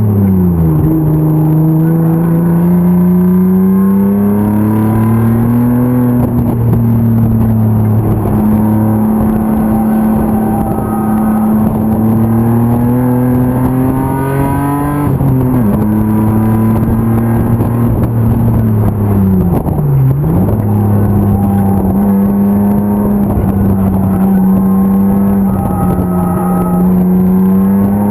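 E36 BMW 325 race car's M50 inline-six engine running hard at speed. Its pitch climbs over the first few seconds and holds while creeping higher. It drops sharply about halfway through, then dips briefly and recovers about two-thirds of the way in.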